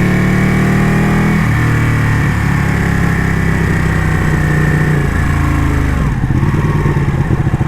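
Ducati motorcycle engine running under way. The revs climb slightly, then drop sharply about a second and a half in, step down again near five seconds, and fall to a low, pulsing exhaust beat about six seconds in.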